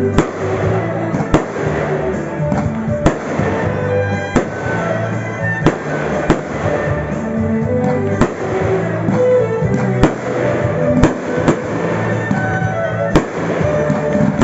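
Daytime fireworks going off, a sharp bang about once a second, about a dozen in all, over music with sustained notes.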